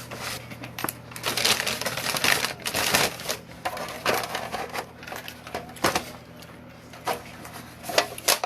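Close-miked eating of a chipotle chicken meal: chewing, with scattered sharp clicks and short crackly bursts, busiest in the first few seconds.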